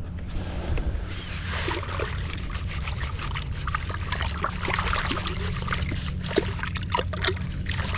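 Water trickling and sloshing aboard a small fishing boat, with many small clicks and knocks of gear being handled, over a steady low hum.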